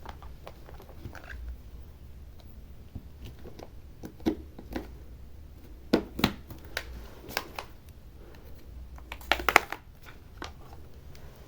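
Scattered light clicks and taps of small tools and a plastic tablet back cover being worked on: screws coming out and the cover being handled, with a brief cluster of clicks near the end. A low steady hum runs underneath.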